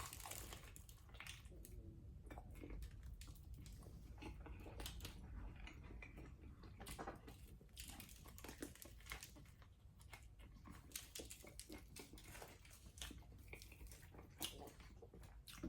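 Faint close-up chewing and biting on a meatball sub, with soft irregular mouth clicks.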